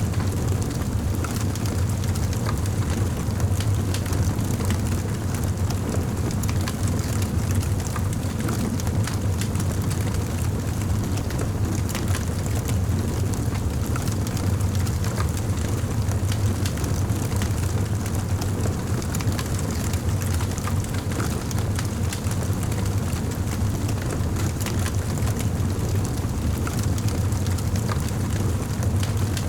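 Wood fire in a fireplace crackling, with frequent small pops and snaps over a steady low rumble of the flames.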